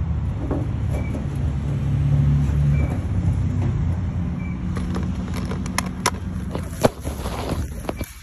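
Heat pump outdoor unit running with a steady low hum, its fan motor turning again on a new 30 µF run capacitor. Several sharp clicks and knocks come in the second half, the loudest about seven seconds in.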